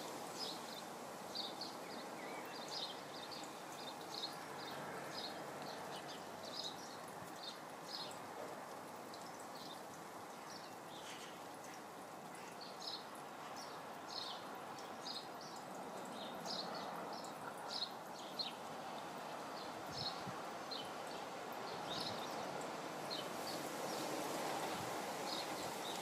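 Outdoor garden ambience: small birds chirping, short high calls repeated every second or so, over a steady background hiss.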